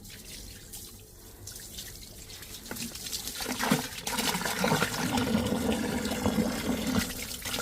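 Water running and splashing into an outside drain as spillage is washed down it, growing louder about three seconds in.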